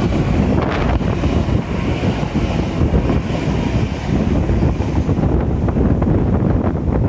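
Strong gale-force wind buffeting a phone's microphone: loud, continuous low buffeting noise with no letup.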